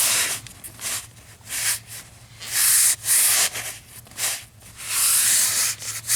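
A dry rag rubbing over a freshly washed painted model concrete floor in a series of irregular scrubbing strokes, some short and some longer. The rag is wiping back a paint wash to leave a weathered brown tone.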